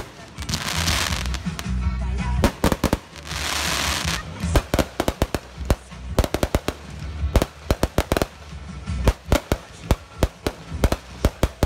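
Fireworks display: aerial shells bursting in a rapid run of sharp bangs, thickest in the second half, with two stretches of hissing crackle in the first few seconds. Music with a low bass line plays underneath.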